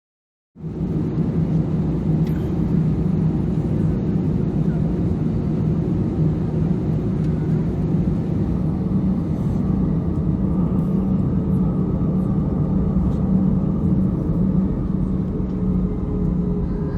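Inside the cabin of an Airbus A320-214: the steady hum and rumble of its CFM56-5B turbofan engines running, starting abruptly about half a second in. A fainter higher tone joins about ten seconds in.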